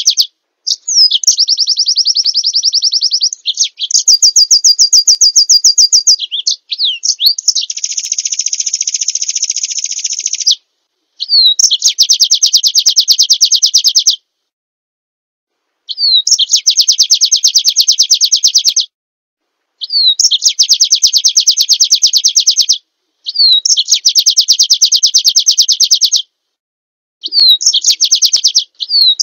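Recorded small songbird song: a series of fast, rattling trills, each two to four seconds long and often opened by a short downward-sliding note, with clean silent gaps between phrases. It is an edited bird-song training track of the kind played to caged white-eyes to teach them song.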